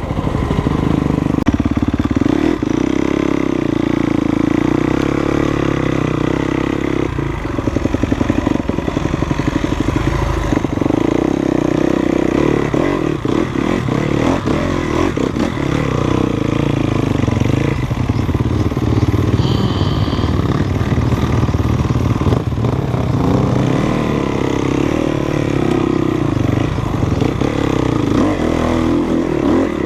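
Enduro dirt bike engine running steadily while being ridden along a dirt trail, its pitch rising and falling a little with the throttle, with scattered clatter from the bike over rough ground.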